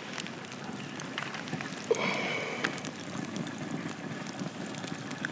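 Wood campfire burning, a steady hiss with scattered sharp crackles and pops.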